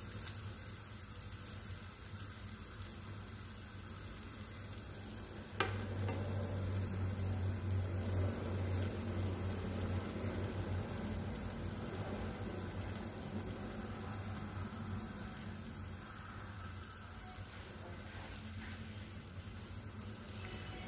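Coated chicken wings deep-frying in hot oil, a steady sizzle over a low hum. A sharp click about five and a half seconds in, after which the sizzle is louder for a few seconds before easing back.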